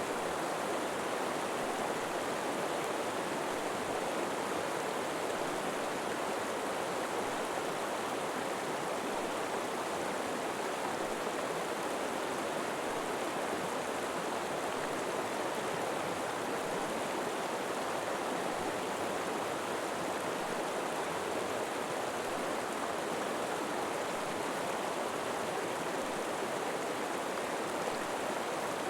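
River water flowing steadily, a continuous even rush with no breaks or distinct splashes.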